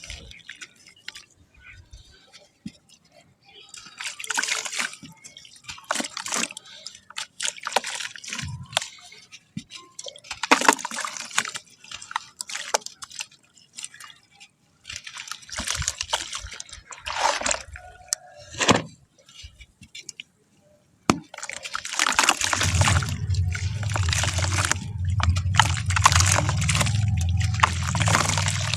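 Clumps of wet black sand crumbling and dropping into water, in a string of separate crunchy, crackly bouts with drips and splashes. A steady low hum joins about 22 seconds in and runs under the last crumbles.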